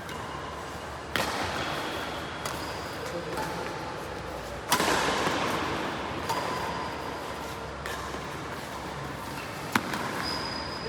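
Badminton rackets striking a shuttlecock in a rally: a series of sharp cracks a second or few apart, each with a short ring after it.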